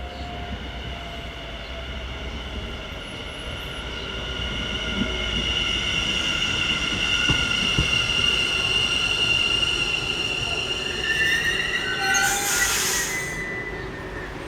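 NS Sprinter Nieuwe Generatie electric train (CAF Civity) going by with a high squeal made of several steady tones, growing louder toward the middle. About twelve seconds in, a short burst of hiss cuts through before the squeal fades.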